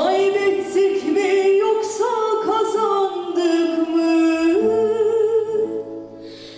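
Singing voice holding long, drawn-out notes, stepping between pitches with almost no accompaniment, fading out near the end.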